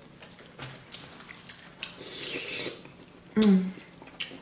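Chewing and wet mouth sounds of sauce-covered corn on the cob being bitten and eaten, with small clicks, and a brief hum of a voice about three and a half seconds in.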